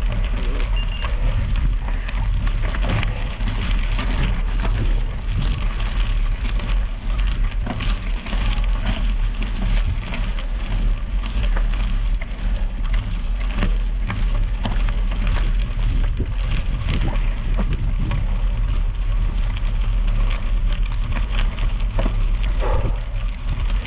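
Bicycle tyres crackling and crunching over gravel on a slow climb, with a steady low rumble of wind on the microphone.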